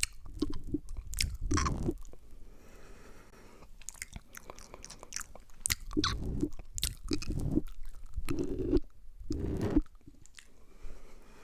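Close-miked wet mouth sounds and licking on the microphone: sharp wet clicks and smacks in irregular bursts, with a quieter stretch about two to five seconds in.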